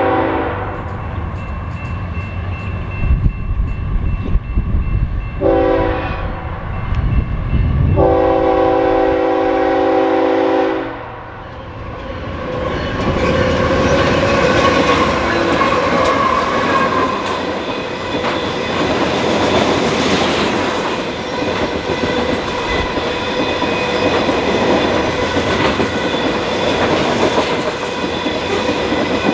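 Freight train horn sounding a grade-crossing signal: the tail of a long blast at the start, a short blast about five seconds in, then a long blast from about eight to eleven seconds. Then the lead BNSF diesel locomotives run past at speed, followed by loaded covered hopper cars rumbling and clacking over the rail joints.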